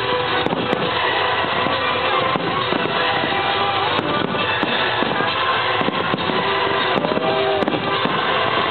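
Aerial firework shells bursting and crackling one over another in a continuous barrage, with music playing throughout.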